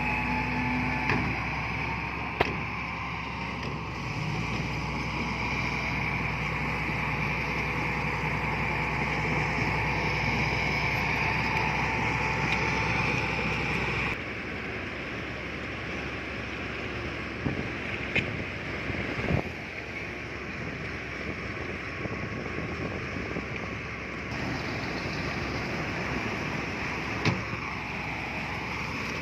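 Heavy earthmoving machinery running steadily, with a few sharp metallic knocks. The sound changes abruptly twice, about halfway and near the end.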